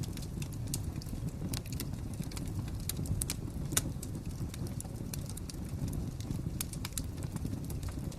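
Fire crackling: irregular sharp pops and snaps over a low, steady rumble, with one louder pop about four seconds in.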